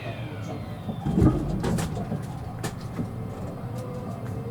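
Inside an E653 series electric train pulling away from a station: a steady running rumble with a few sharp clicks from the wheels. There is a short low thud about a second in, and the motor whine falls in pitch at the start and begins rising again near the end as the train accelerates.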